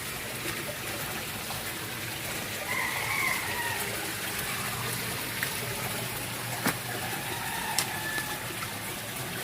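Steady rush of flowing water, with a rooster crowing about three seconds in and a few sharp clicks later on.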